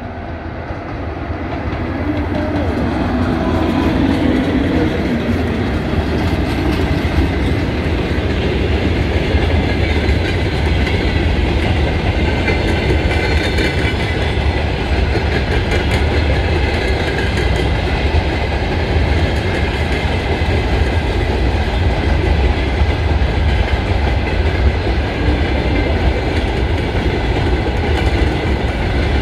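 Freight train passing close by behind two 2ES6 electric locomotives. It grows louder over the first few seconds as the locomotives go by, then becomes a steady rumble and clickety-clack of the freight wagons' wheels on the rails.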